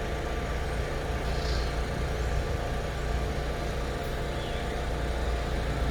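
Bombardier M7 electric multiple-unit train pulling into the station: a steady low rumble with a faint constant hum above it.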